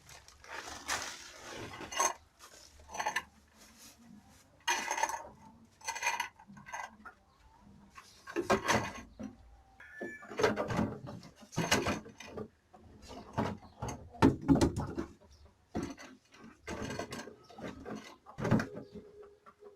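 Irregular knocks and clatter of household items, pots and wooden things, being picked up, moved and set down during cleaning.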